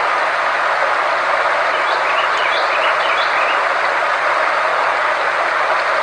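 Steady, even rushing noise from a sound-therapy track, unchanging in level, with a few faint short chirps about two to three seconds in.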